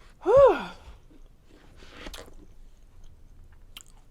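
A woman's short wordless vocal sound about a quarter second in, its pitch rising then falling, followed a second later by a soft breathy exhale.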